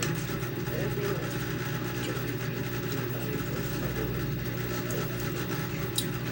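Steady low mechanical hum, with one faint click near the end.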